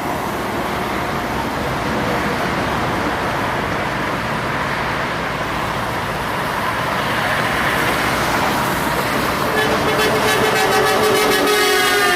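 Heavy traffic passing, with trucks' engines and tyres making a steady noise. About three seconds before the end a truck's air horn sounds, one held chord lasting about three seconds.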